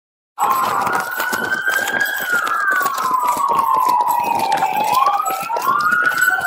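Police car sirens wailing: two slow rising-and-falling tones overlapping each other. They cut in suddenly about half a second in.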